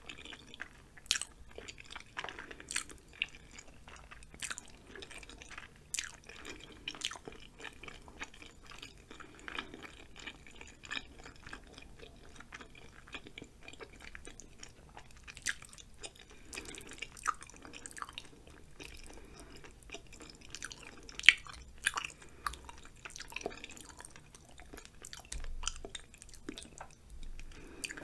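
Close-miked mouth sounds of chewing chewy rice cakes and ramen noodles: irregular wet clicks and smacks, one sharper smack about two thirds of the way through.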